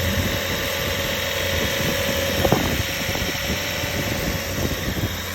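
2011 Audi S5's engine idling shortly after a cold start, a steady drone with a held tone above it. A short click about two and a half seconds in.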